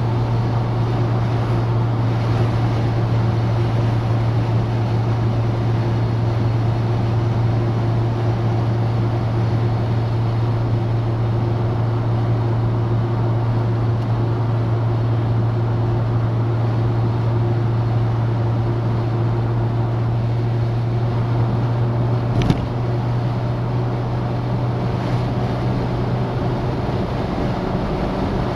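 Citroën DS four-cylinder engine and road noise while driving at a steady speed: an even low drone that does not rise or fall. One sharp click sounds about two-thirds of the way through.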